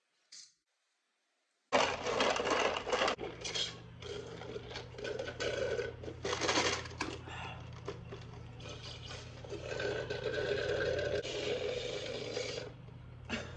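A person chewing food close to the microphone, with irregular wet, crackly mouth noises over a steady low background hum. The first second and a half is dead silent.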